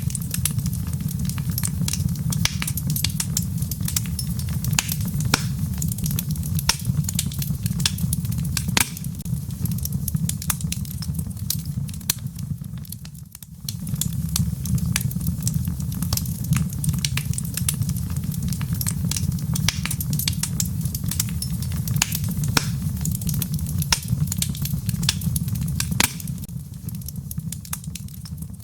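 Wood fire in a fireplace crackling, with frequent sharp snaps and pops over a steady low rumble. The sound dips briefly about halfway through and fades near the end.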